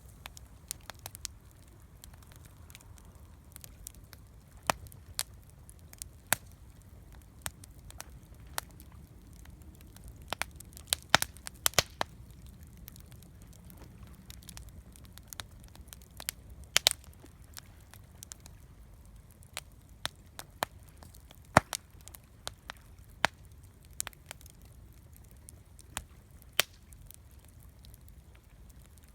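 Campfire crackling, with irregular sharp pops and snaps, a cluster of loud ones about midway, over a low steady rumble.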